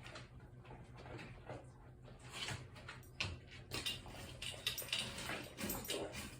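Dogs eating supper: quick clicks and crunches, getting busier from about halfway through, over a low steady hum.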